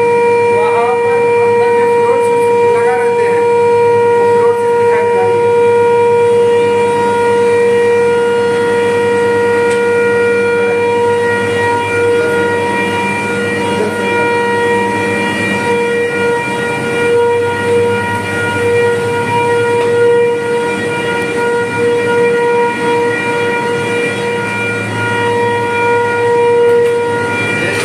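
Electric furnace's power panel giving off a loud, steady electrical whine at one fixed pitch with several overtones.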